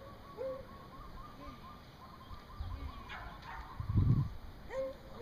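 Small bird chirping in a rapid repeated series, with a few short pitched calls at the start and near the end. A brief low rumble comes about four seconds in.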